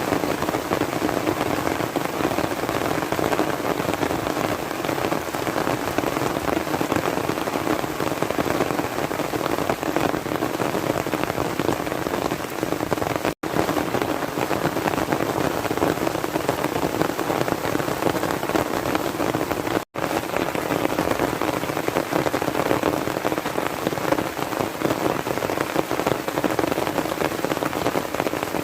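Heavy, steady rain falling, broken twice by a momentary silence, about 13 and 20 seconds in.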